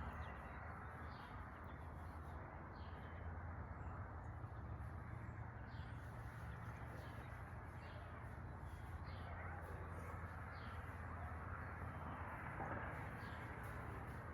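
Steady, low-level background noise with a low hum, and faint short animal calls repeating every second or two.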